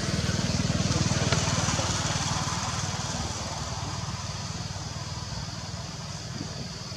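A motor vehicle's engine running with a rapid low pulse, loudest about a second in, then slowly fading.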